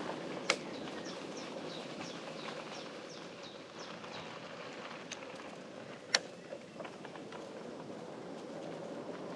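Steady rolling noise of a bicycle riding along a quiet path, with a bird singing a run of about ten short falling notes, about three a second, in the first half. A few sharp clicks stand out, the loudest about six seconds in.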